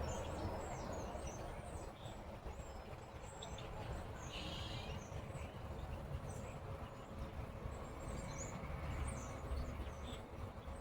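Small birds chirping on and off, with a brief louder call a little after four seconds in, over a steady low outdoor background rumble.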